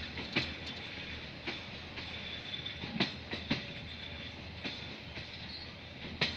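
Train running on jointed track: a steady low rumble with sharp wheel clicks over the rail joints at uneven intervals, as a DFH21 diesel locomotive approaches.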